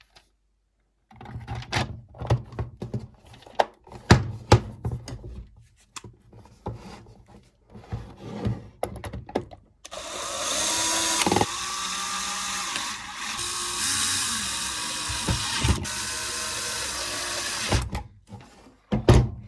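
Clicks and knocks of plastic parts being handled and fitted, then a small electric motor whirring steadily for about eight seconds, which fits a power screwdriver driving the charger lid's screws back in.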